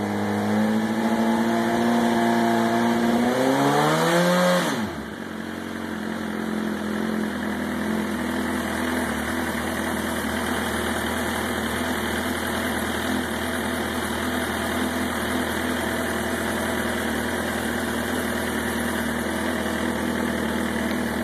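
2008 Suzuki GSX-R1000's inline-four engine, fitted with a dual KR tuned exhaust, running at idle. It is revved once, its pitch climbing about three seconds in, then drops sharply back to a steady idle.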